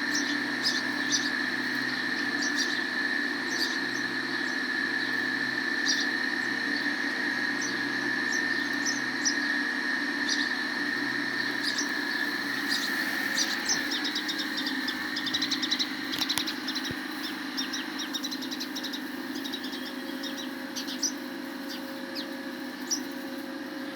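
Sparrows chirping: short, high chirps scattered all through, coming thickest around the middle. Under them run a steady high-pitched whine, which fades out about two-thirds of the way through, and a low steady hum.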